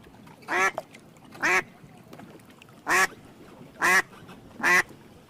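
Duck quacking: five short, separate quacks about a second apart.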